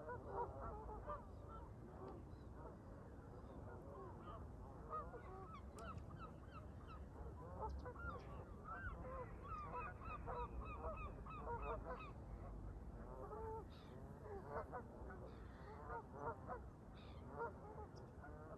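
A flock of Canada geese honking, many calls overlapping one another throughout, over a low rumble of wind.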